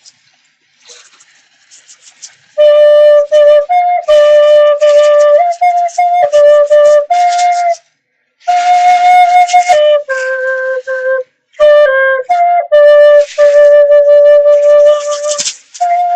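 A flute-like wind instrument playing a simple tune of a few held notes, breathy, in short phrases with brief pauses. It starts a few seconds in.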